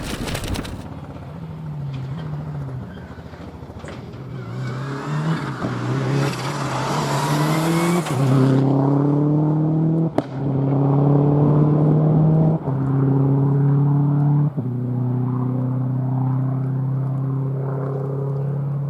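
A four-wheel-drive rally car engine accelerating hard as the car approaches, getting louder, then pulling through the gears. The pitch climbs in each gear, with three quick upshifts, one about ten seconds in and two more a few seconds apart.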